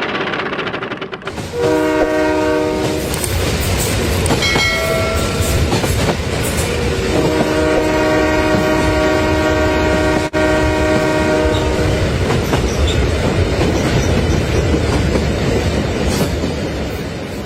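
A train horn sounds twice, a short blast a couple of seconds in and a longer one of about five seconds midway, over a steady rumble of a train running on track.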